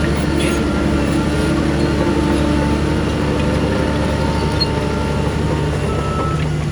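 Heavy diesel earthmoving machinery running steadily, a deep engine drone with a constant pitch.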